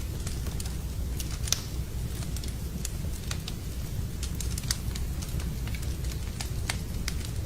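Wood fire burning in a fireplace: a steady low rumble with irregular sharp crackles and pops, one louder pop about a second and a half in.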